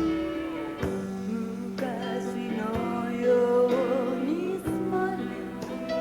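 A slow pop ballad performed live: a woman sings a wavering melodic line over band accompaniment, with a chord struck about once a second.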